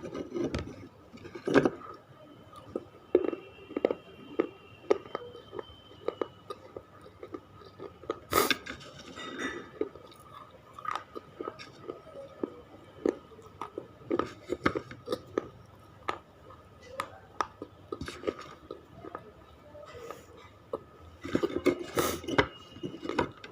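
A person biting and chewing hard, crunchy pieces of baked clay. There are loud snapping bites near the start, about eight seconds in and near the end, with crackling chewing in between.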